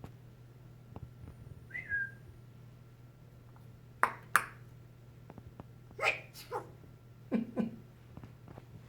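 Pet bird imitating a human sneeze: three two-part sneeze bursts, about a second or two apart, after a short whistled chirp about two seconds in.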